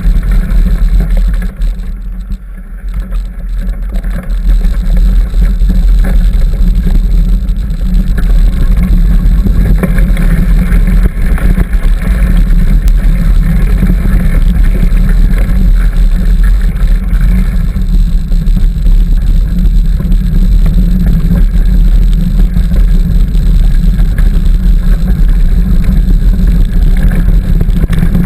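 Wind rumbling on the microphone of a camera riding along on a moving bicycle, a loud steady low rumble that eases briefly about two seconds in.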